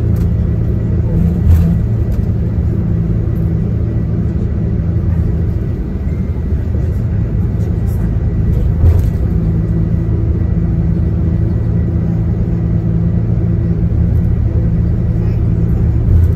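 Diesel engine of a tour coach running steadily under way, heard from inside the cabin over road noise. Three brief thumps come about a second and a half in, around nine seconds in, and near the end.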